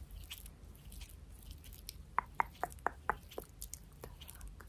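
Close-miked ASMR trigger sounds: faint scattered ticks and rustles, then a quick run of about six sharp clicks a little past two seconds in.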